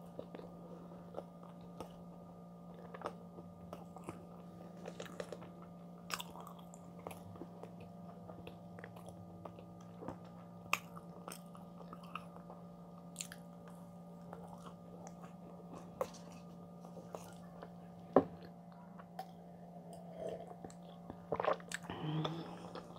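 Close-miked chewing of a chocolate-chip brownie, soft with a crisp top: scattered wet mouth clicks and smacks with an occasional sharper bite, over a steady low hum. The mouth sounds get louder near the end.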